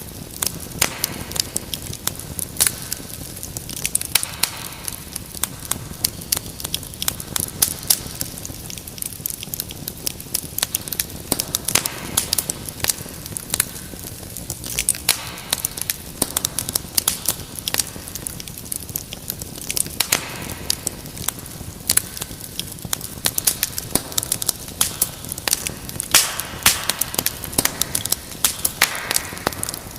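Wood fire crackling in a fireplace: a steady stream of irregular sharp pops and snaps over a soft hiss, with brief stretches of hissing from the burning wood.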